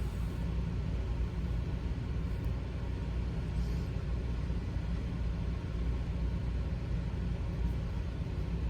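A steady low rumble of background noise, even in level throughout, with no distinct events.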